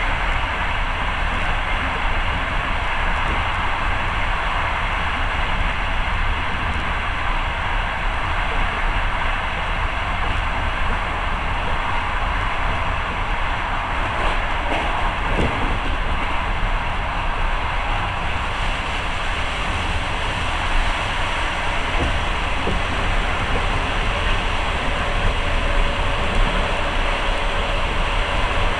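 Passenger train running at speed, heard from inside the carriage: a steady, unbroken noise of wheels on rails and the moving train.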